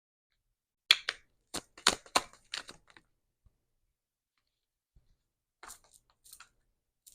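Oracle cards being shuffled and handled: a run of crisp card snaps and rustles over about two seconds, then a few more near the end.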